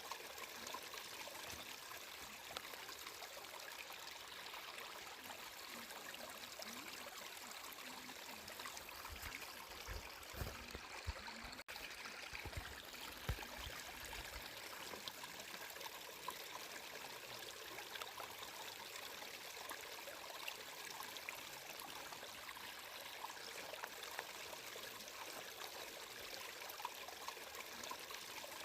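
A stream of water flowing and trickling steadily, with a few low thuds about ten to fourteen seconds in.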